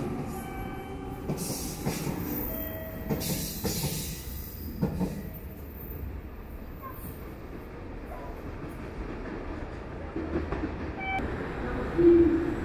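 Limited express train pulling out of a station platform: a steady low rumble with scattered knocks of the wheels over rail joints, then a brief loud tone near the end.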